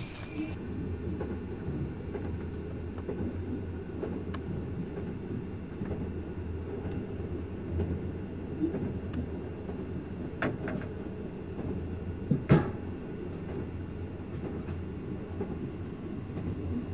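Steady low rumble of a moving passenger train heard from inside the carriage. A few sharp knocks come about ten seconds in, and a louder one a couple of seconds later.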